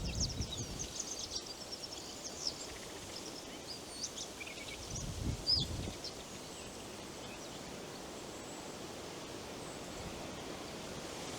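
Forest ambience: small birds chirping and twittering through the first half, over a steady hiss of wind in the leaves. There are two brief low rumbles, one at the start and one about five seconds in.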